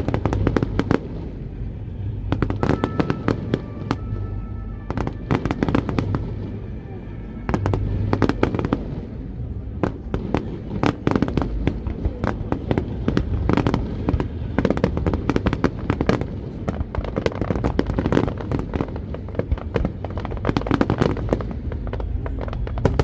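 Fireworks display: many shell bursts and crackling bangs in dense, rapid clusters, with music playing underneath.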